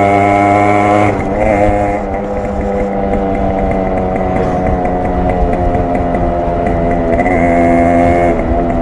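Yamaha RX 100's two-stroke single-cylinder engine and exhaust running while riding. The note drops as the throttle eases about a second in, then holds steady and rises briefly near the end before easing off again.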